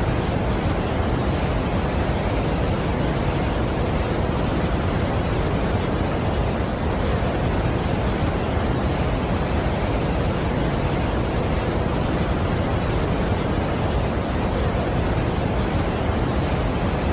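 Steady rush of water from a large waterfall, an even noise with no change in level.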